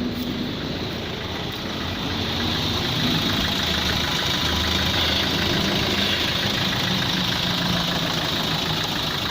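Nissan Navara D40's YD25 2.5-litre four-cylinder turbo diesel idling steadily, getting somewhat louder about two seconds in.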